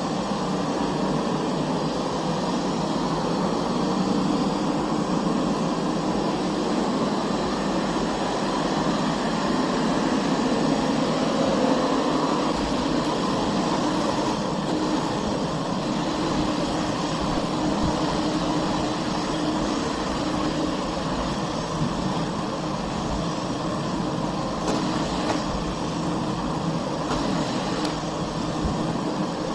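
Puppyoo R6 robot vacuum running, with a steady whir from its motor.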